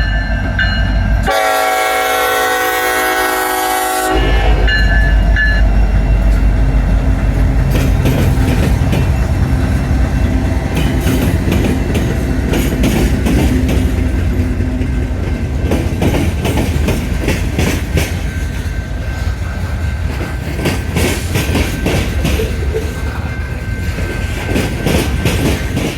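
Diesel freight train led by a Union Pacific SD70AH locomotive sounding its horn for about three seconds, then running past with a steady engine rumble and wheels clicking rapidly over track joints.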